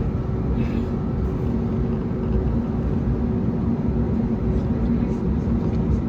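Airbus A321neo engines running at a steady setting, heard from inside the cabin: a constant deep rumble with a steady low hum on top.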